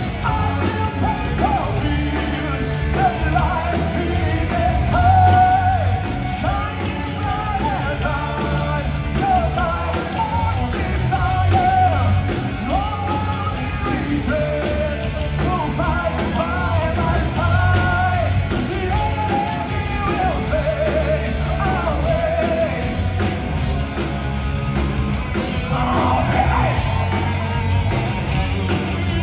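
Heavy metal band playing live: a vocalist sings and yells a melody over distorted guitars, bass and drums.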